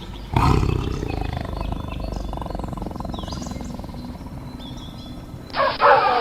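A big cat growling, a low rough snarl that starts suddenly and lasts about five seconds. Near the end it cuts abruptly to African wild dogs' high-pitched twittering and yipping.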